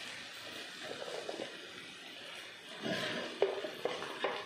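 Faint sizzling in a pot as handfuls of torn parotta pieces are dropped into the frying masala, with three or four light knocks with a brief ring about three to four seconds in.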